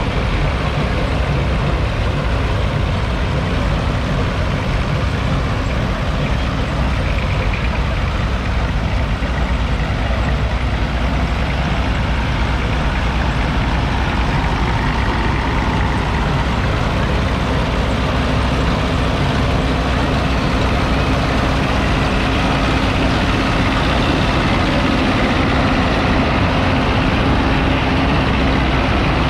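Vintage tractor engines, mostly diesel, running steadily as the tractors drive past at parade pace.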